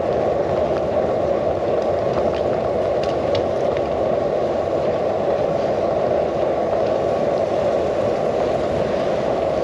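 Steady rushing noise of wind and bicycle tyres rolling, picked up by a handlebar-mounted GoPro's microphone, with a few faint ticks.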